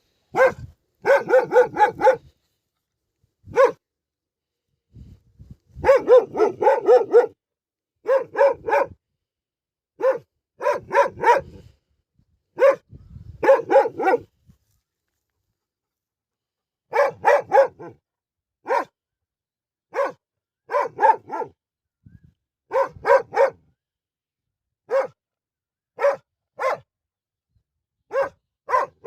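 A dog barking loudly in quick runs of several barks, with short pauses between the runs.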